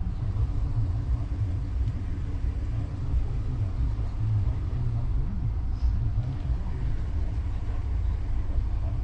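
Steady low rumble of a vehicle driving, engine and road noise heard from inside the cabin.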